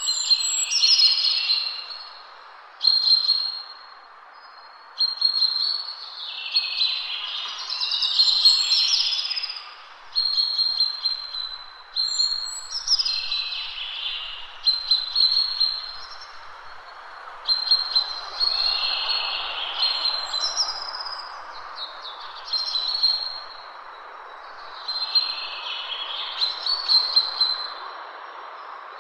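A bird singing loud, repeated chirping phrases with a held high note, a new phrase every two to three seconds, over a steady background hiss.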